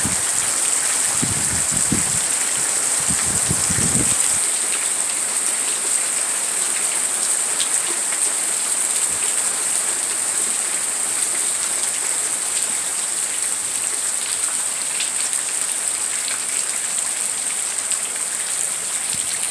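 Heavy rain falling steadily, a dense even hiss of drops on surfaces. A few low rumbles come through in the first four seconds.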